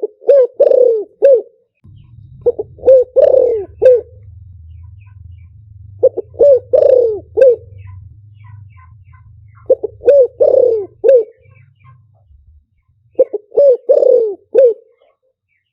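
Spotted dove cooing: five phrases of three or four notes, one every three to four seconds. This is a decoy call recording of the kind played to lure wild doves into a trap. A faint low hum runs underneath for much of it.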